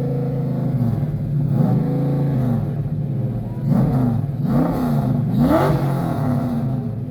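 Car engine revved by a parked car: a steady high hold at first, then several quick blips of the throttle in the second half, the pitch rising and falling with each.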